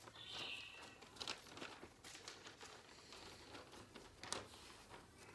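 Faint rustling and crinkling of a calendar-paper sheet being handled and creased into a paper airplane, with scattered soft taps and a short papery swish near the start.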